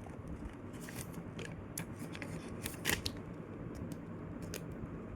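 A folded sheet of paper being handled and creased by hand: irregular crinkles and sharp crackles, the loudest a little under three seconds in.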